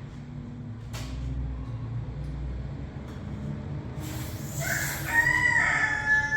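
A rooster crowing: one long, held call that begins about four and a half seconds in, over a steady low hum.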